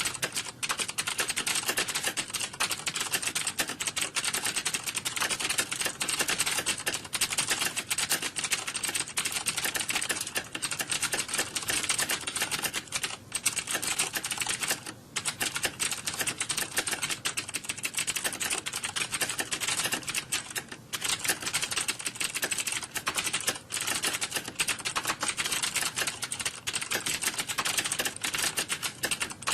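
Computer keyboards typed on rapidly by several people at once: a dense, unbroken clatter of overlapping key clicks, with brief lulls about half and two-thirds of the way through.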